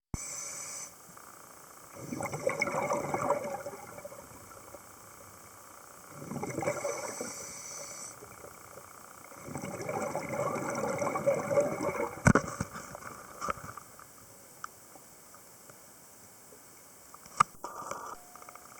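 Scuba diver's exhaled bubbles from the regulator heard underwater: three long bubbling gushes a few seconds apart, over a faint steady hiss. A sharp click comes about twelve seconds in.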